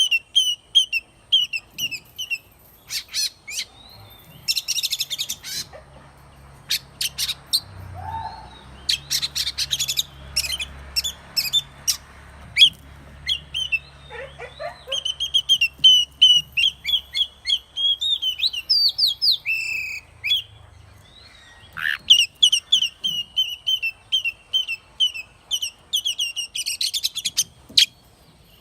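Oriental magpie-robin singing: long runs of quick, varied whistled notes, broken several times by fast rattling phrases.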